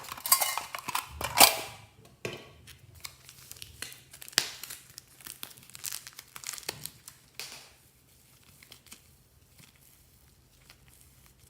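Slime being worked by hand: a run of irregular crackles and pops, loudest in the first two seconds, then sparser and fainter, dying away about eight seconds in.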